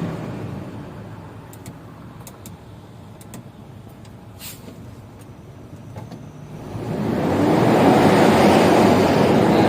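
Diesel truck engine running on biodiesel made from used cooking oil: quiet for most of the stretch, with a few faint ticks, then revved up sharply about seven seconds in and held at high revs, around 3,000 rpm.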